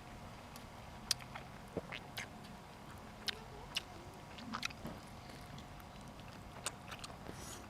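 Close-up eating sounds: chewing with a dozen or so sharp mouth clicks and smacks scattered irregularly through.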